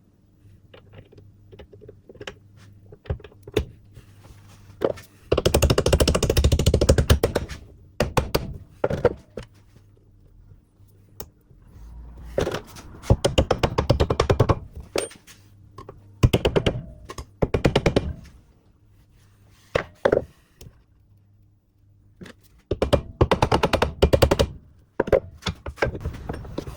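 Four bursts of rapid, fast-repeating metal impacts, each lasting a couple of seconds, with single knocks in between, from tool work on a drive shaft universal joint and its bearing caps.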